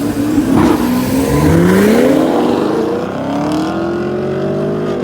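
Car engine accelerating hard under full throttle. Its pitch climbs steeply, dips at a gear shift about two seconds in, then climbs again more slowly through the next gear.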